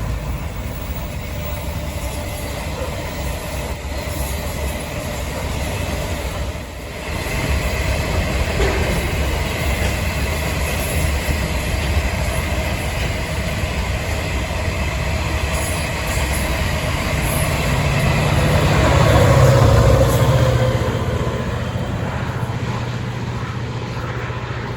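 A train running on rails: a steady rumble and rattle of wheels that swells to its loudest about twenty seconds in, then eases off.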